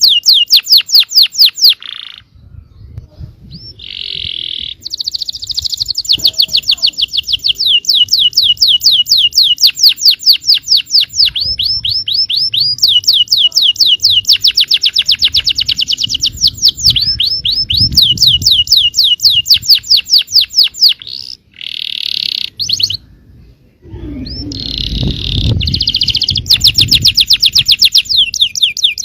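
Yellow domestic canary singing long, fast rolling trills of rapidly repeated high notes, broken by a few short pauses. A faint low rumble sits beneath the song, clearest a little after the second pause.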